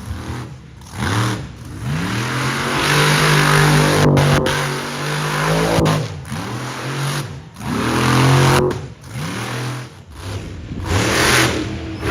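Monster truck engine revving hard in repeated surges, its pitch climbing and dropping about four times, with short breaks as the throttle lifts.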